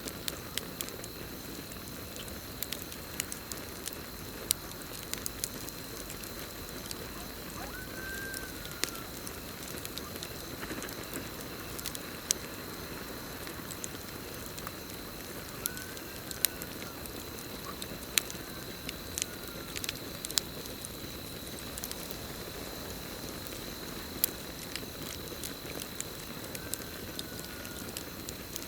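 Campfire burning with scattered sharp crackles and pops over a steady hiss, under a continuous high cricket chirping. A few short rising-and-falling whistled calls come through now and then.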